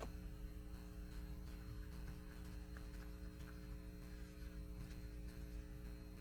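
Low, steady electrical mains hum made of several even tones, with a few faint light ticks in the middle.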